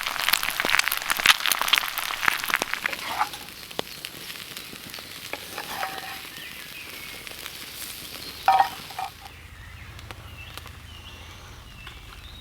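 Food sizzling and crackling on a grill over a campfire, a dense spitting for the first couple of seconds that then settles to a quieter sizzle. A short, sharper sound comes about eight and a half seconds in.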